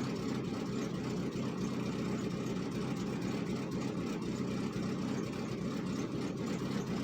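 Chevrolet Cavalier's four-cylinder engine idling steadily shortly after a cold start, running rich.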